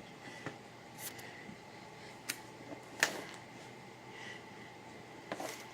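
A few scattered light clicks and taps as things are handled on a craft table, the sharpest about three seconds in, over a low steady room hum.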